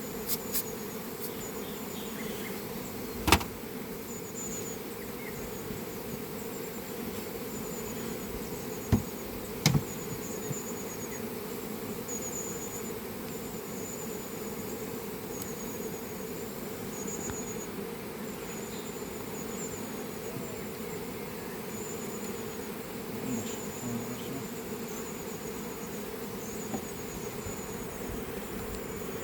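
Honeybees buzzing in a steady hum, with a short high chirp repeating every second or so above it. A sharp knock sounds about three seconds in, and two more come around nine to ten seconds.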